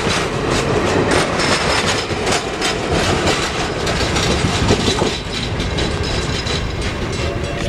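Passenger excursion train rolling past, its wheels clicking rapidly over the rail joints over a steady rumble.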